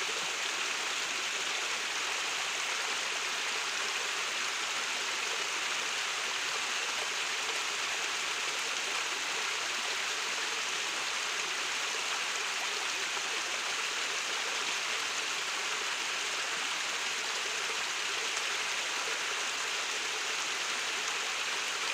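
Stream water rushing steadily down at a waterfall, an even unbroken rushing.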